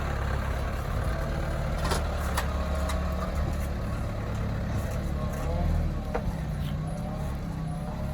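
Truck engine running with a steady low rumble, with a few sharp clicks or knocks over it about two, two and a half, three and six seconds in.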